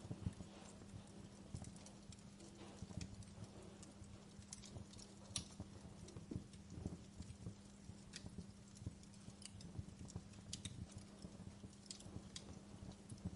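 Wood fire crackling in a fireplace: irregular sharp pops and snaps, some louder than others, over a low rumble with a steady faint hum.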